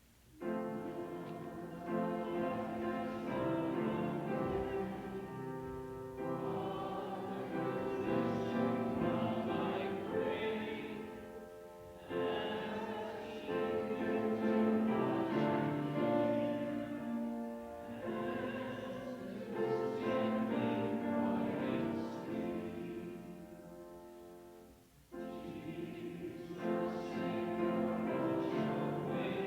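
Congregation singing a hymn with instrumental accompaniment, in sung phrases about six seconds long. There is a brief near-silent break about 25 s in before the next line begins.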